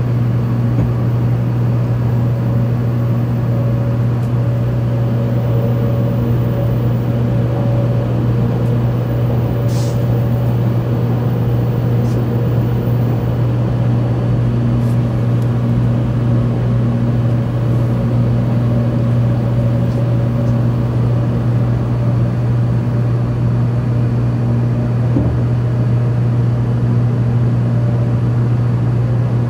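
Steady rumble and hum of a 700 series Shinkansen running at speed, heard inside the passenger cabin.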